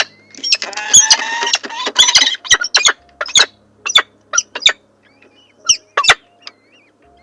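Birds calling at a nest: about two and a half seconds of loud, harsh chattering calls, then single sharp chirps about a second apart, growing fainter.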